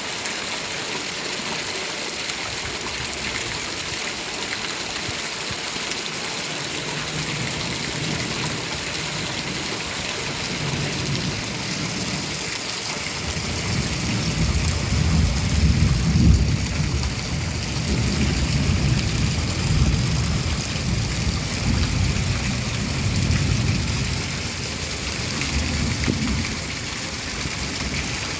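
Steady heavy rain with rolling thunder: a faint low rumble comes in about a quarter of the way through, swells into long loud thunder just before halfway, and dies away near the end while the rain keeps falling.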